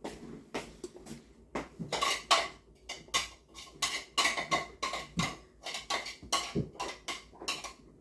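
Dishes and cutlery clattering at the table: an irregular run of sharp clinks and knocks of utensils against bowls, stopping shortly before the end.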